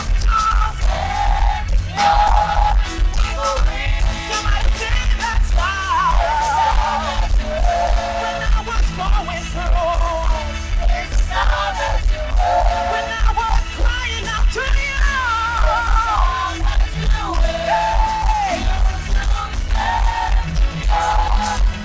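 A choir singing with a band over a heavy, steady beat, the low end boomy and distorted.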